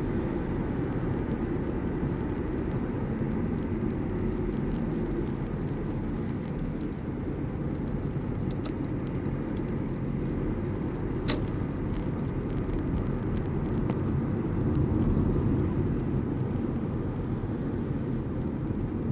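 Steady road and engine noise of a moving car heard inside its closed cabin, with a couple of short clicks, the clearest about eleven seconds in.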